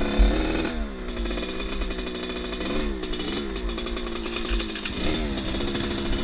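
Off-road motorcycle engine running under way, its revs rising and falling several times as the rider works the throttle, with low wind buffeting.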